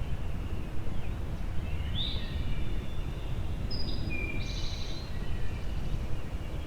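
Wind rumbling on the microphone, with songbirds calling: a short whistled phrase about two seconds in and a few more high notes around four to five seconds.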